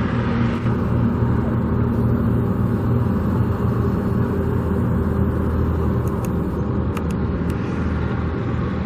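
An engine running steadily, most like a car's: a constant low rumble with a few steady low tones, unchanging throughout.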